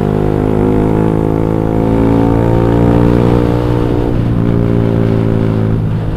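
Motorcycle engine heard through an X1 Speed Pro One aftermarket exhaust with a 32 mm header and a fully packed silencer, 50 mm in and out, giving a deep note that is not too tinny. The engine holds a steady pitch, rises slightly, then eases off a little after about three seconds.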